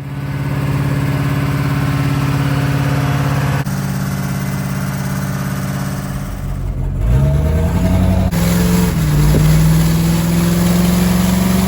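A vehicle engine running at a steady pitch, then rising in pitch about seven seconds in as it accelerates, and holding at the higher note while it keeps creeping up.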